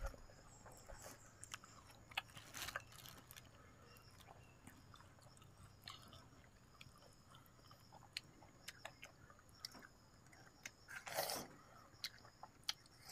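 Faint wet chewing and biting of juicy watermelon flesh, with scattered small mouth clicks and one louder mouth sound near the end.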